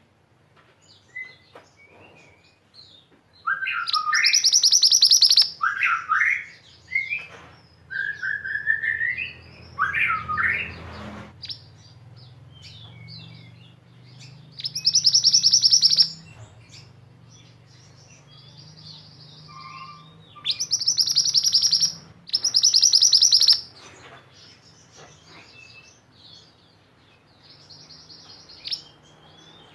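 Recorded songbird song: four loud, rapid trills of about two seconds each, the "tembakan" used as master song for white-eyes, with sweeping whistled notes between the first trills and scattered short chirps throughout.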